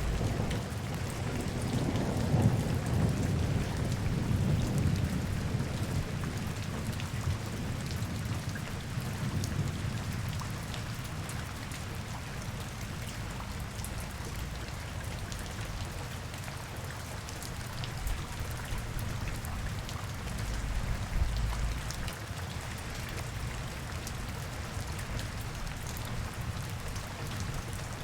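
Steady rain falling in a city, with fine drops pattering. A low rumble swells over the first few seconds and again about twenty seconds in.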